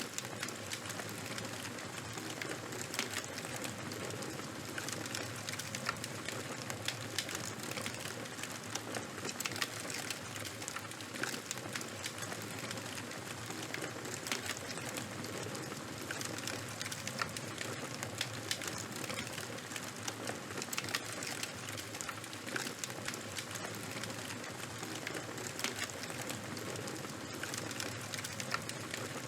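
Charcoal and wood fire burning, crackling steadily with many small sharp pops over a soft hiss.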